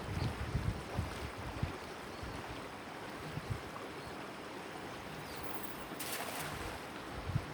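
Water rushing and splashing past a moving boat on a river, with wind buffeting the microphone in low thumps during the first couple of seconds. A brief hissing burst, like spray, comes about six seconds in.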